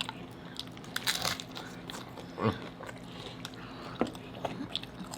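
Close-up eating sounds: biting and chewing crunchy hard-shell tacos, with crackling crunches about a second in and scattered sharp clicks. A brief low thump falls about halfway through.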